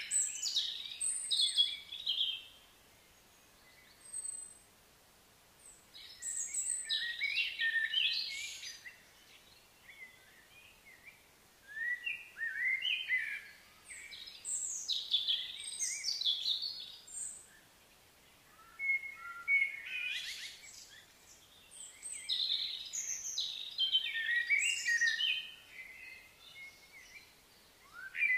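Birds singing in high-pitched phrases of a few seconds each, with quiet gaps of a second or two between them.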